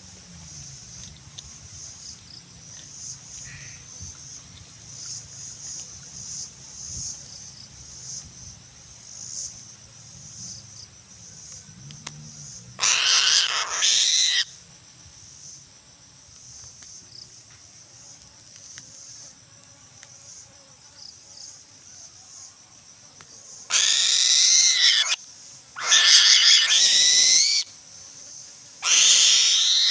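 A bird of prey giving four loud, shrill, wavering screams, the first about halfway through and three more close together near the end, over a faint steady buzz of insects.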